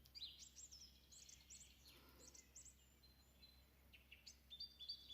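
Faint bird chirping: many short, high notes sweeping downward, in quick runs, with a faint steady low hum underneath.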